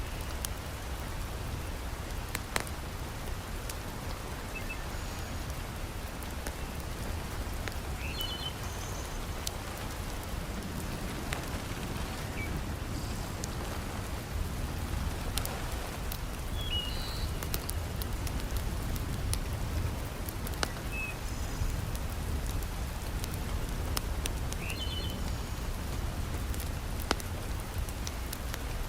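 Heavy rain falling steadily, with sharp crackles and pops from a wood fire scattered through it and a few short, high bird chirps.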